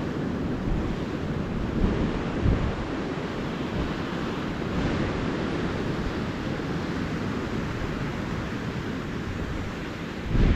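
Calm ocean surf washing steadily onto a beach, with wind buffeting the microphone in low, uneven rumbles.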